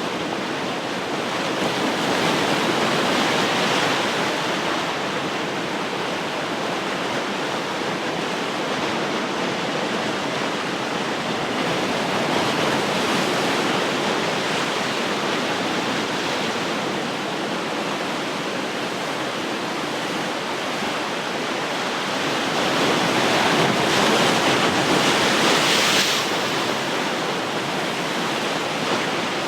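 Ocean surf: a steady wash of waves breaking on the shore, swelling three times as waves break, the biggest surge near the end.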